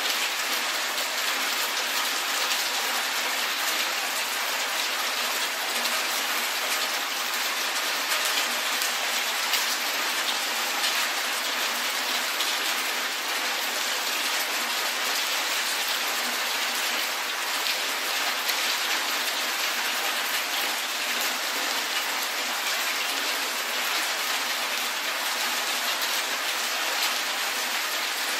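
Steady rain falling on a paved city street, an even hiss flecked with the ticks of single drops.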